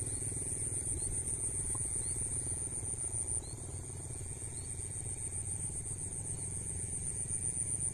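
Insects trilling in a steady, high, rapidly pulsing chorus over a low rumble that eases a little about halfway through.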